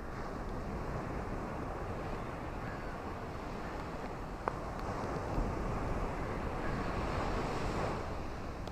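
Ocean waves breaking and washing on a shore, a steady rush that swells in the second half, with a single faint click about halfway through.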